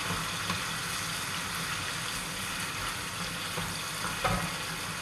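Tomatoes and tomato puree sizzling in a frying pan, stirred with a wooden spatula that knocks against the pan a couple of times.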